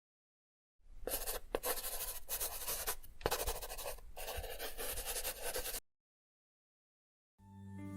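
Pencil scratching on paper in quick irregular strokes for about five seconds, then cutting off. Soft piano music fades in near the end.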